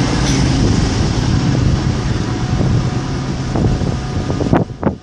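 Class 390 Pendolino electric train pulling out of the station with a loud, steady rumble. Two sharp knocks come near the end, and the sound then drops much quieter.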